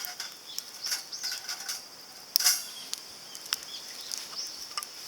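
Small wood fire crackling in a compact titanium camping grill, with scattered sharp pops, the loudest about halfway through.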